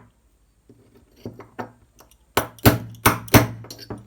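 Sharp metal tapping: a few faint taps, then about five harder strikes in quick succession in the second half. This is a long tool being tapped to drive a new bearing squarely into a Traxxas Velineon brushless motor.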